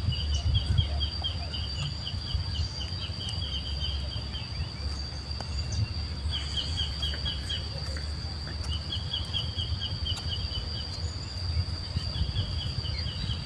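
A steady high-pitched insect drone, with several bouts of rapid chirping over it and a low rumble underneath.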